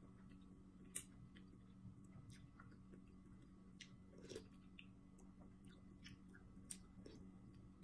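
Faint close-up chewing, with a few sharp clinks of a metal spoon and fork against the plate and bowl; the loudest clink is about a second in. A steady low hum runs underneath.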